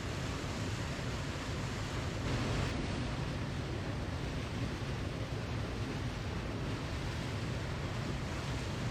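Waterfall rushing steadily, a continuous even roar of falling water with a slight swell about two and a half seconds in.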